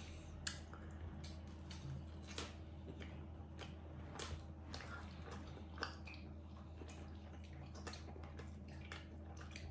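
Faint chewing and scattered small clicks over a steady low hum, as homemade pizza is tasted.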